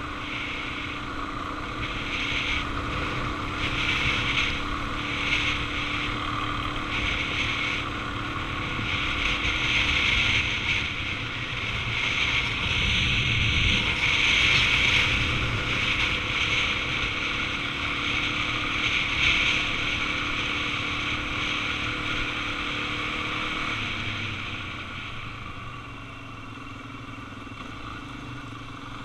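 Suzuki DR-Z400 single-cylinder dirt bike running on the move, with wind rushing over the microphone. The sound drops somewhat about 24 seconds in.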